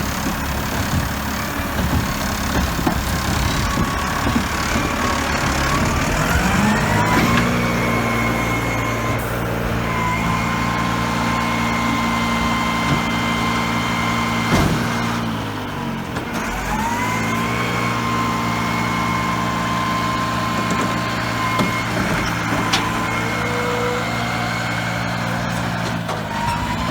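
Garbage truck engine revving up and holding a raised speed, with a high steady whine (its squeal) rising along with it. About fifteen seconds in there is a sharp clunk, and engine and whine drop briefly, then rev up again and hold.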